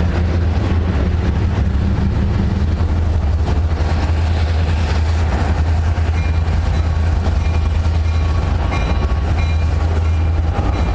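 Train passing close by: the steady low rumble of a diesel locomotive and the noise of wheels on rail. From about halfway through, short high-pitched squeals come and go above it.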